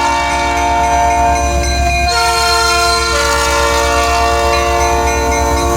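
Canadian National freight locomotive's air horn sounding one long held chord, its notes shifting about two seconds in, over the low rumble of the passing diesel locomotive.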